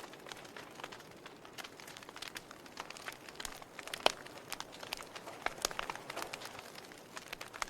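Burning wood crackling: irregular sharp pops and snaps over a soft hiss, with one louder pop about four seconds in.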